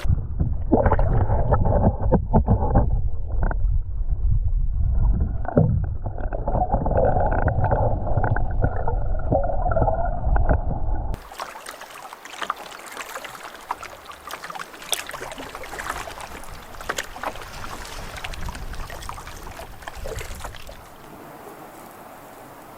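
Canoe being paddled on a lake: paddle strokes and water sloshing against the hull. For about the first eleven seconds it is loud, muffled and rumbling, then it changes abruptly to a quieter, clearer sound of splashes and drips.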